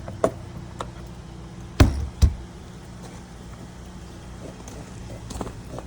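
Two loud, sharp knocks about half a second apart, roughly two seconds in, after a few lighter clicks, over a steady low hum.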